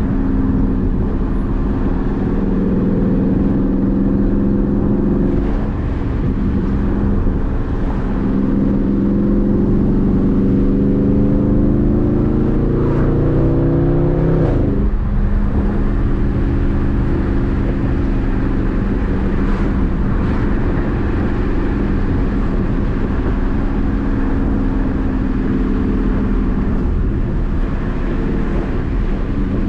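A 2021 Dodge Charger Daytona 392's 6.4-litre HEMI V8 pulling as the car accelerates. The engine note climbs and drops back twice, at about five seconds and about fifteen seconds in, as the transmission upshifts. After that the car cruises at a fairly steady engine note.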